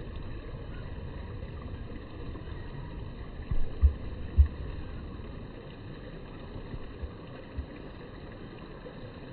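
Low steady rumble on a smartphone microphone, with a few dull low thumps from the phone being handled a little before the middle and two fainter ones later.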